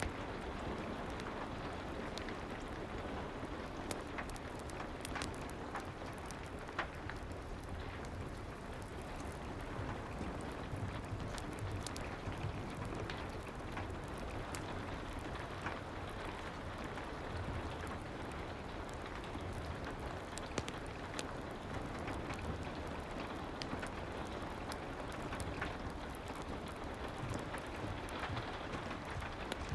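Soft rain and fireplace ambience: a steady rain hiss with small crackles and pops scattered irregularly throughout.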